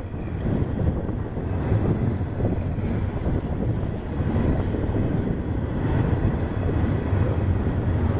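Freight train of coil cars loaded with steel coils rolling past, a steady low rumble of wheels on rail.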